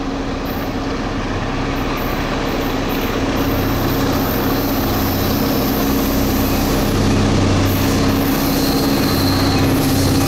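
GP38-2 diesel-electric locomotive, with its EMD 16-cylinder two-stroke diesel, running under power past the microphone. A steady engine drone under a rolling rumble grows slowly louder.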